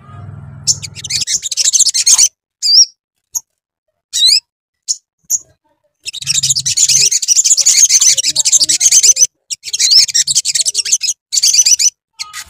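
Sogon (sogok ontong) bird singing: bursts of rapid, high-pitched chattering trills, the longest from about six to nine seconds in, with a few short upward-sliding calls in the gaps between.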